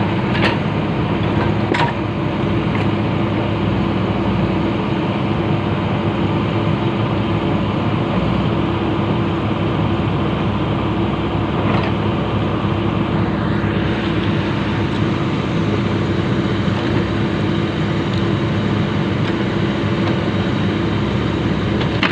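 Komatsu PC-200 excavator's diesel engine running steadily, with a few sharp metallic knocks near the start and about twelve seconds in.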